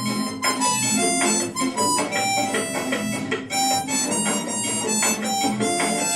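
Instrumental music: a harmonica playing a melody of short held notes at a steady pace.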